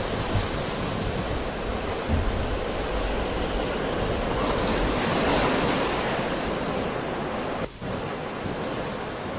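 Sea waves washing onto the shore in a steady roar of surf that swells to a peak in the middle, with a low rumble of wind on the microphone. The sound drops out for an instant about three-quarters of the way through.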